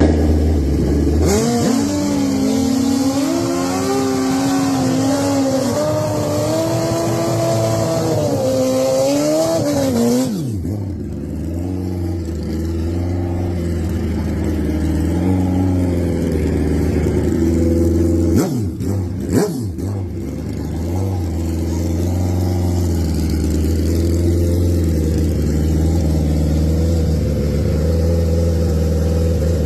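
Drag-racing motorcycle engine revved and held at high, wavering revs for about ten seconds, then dropping suddenly to a lower steady running speed. Two quick throttle blips come a little past the middle.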